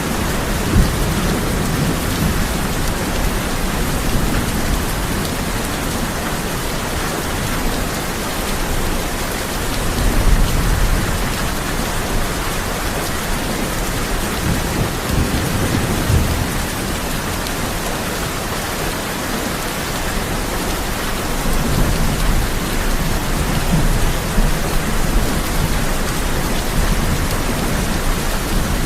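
Heavy rain drumming steadily on a tin roof, with low rolls of thunder rumbling now and then, strongest about ten seconds in and again near the end.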